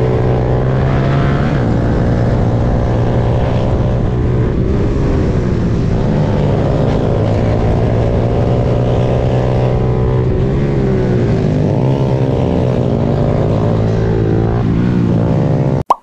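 Onboard sound of a Honda Grom's 125 cc single-cylinder engine running hard on a circuit, its pitch climbing and dropping repeatedly with the throttle through the corners, over wind rush. The sound cuts off abruptly near the end.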